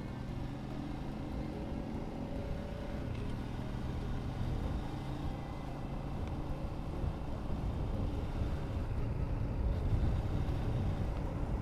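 Yamaha LC135 motorcycle's single-cylinder four-stroke engine running while riding, with road and wind noise; it gets gradually louder toward the end.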